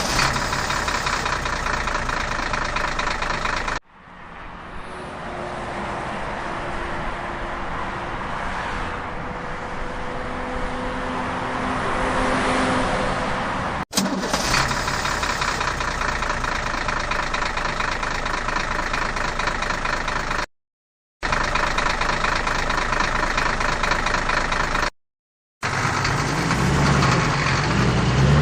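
Heavy vehicle engines running in a series of clips joined by hard cuts, with two brief drops to silence; in the last clip the engine revs up, its pitch rising.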